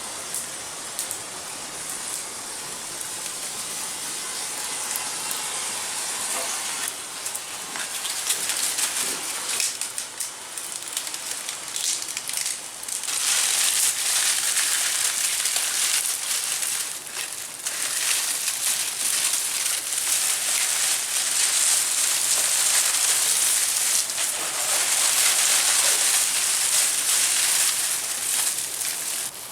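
A dense hissing, crackling noise with no clear pitch, which grows louder about 13 seconds in and stays loud.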